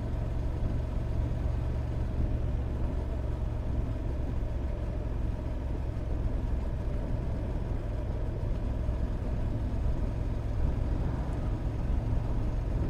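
Motorcycle engine running steadily while riding, with road noise; a constant low rumble.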